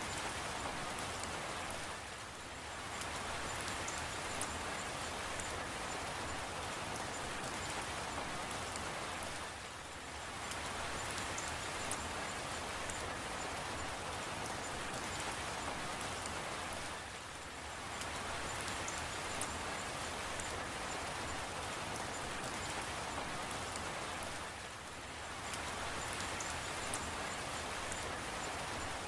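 Steady rainfall, an even hiss with faint scattered drop ticks. It dips briefly in level about every seven and a half seconds.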